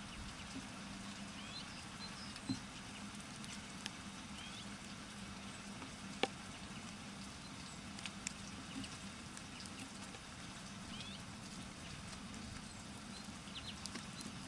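Small birds at a feeder: short, high chirps every second or two and a few sharp taps, over a steady faint hiss.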